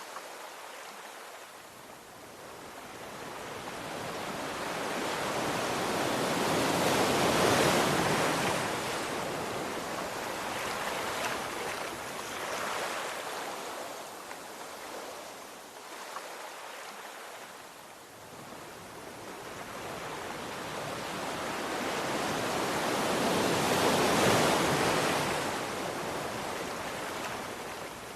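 Sea waves on a shore: a wash of surf that swells slowly into a breaking wave about seven seconds in, ebbs away, and builds into a second crash near the end before drawing back.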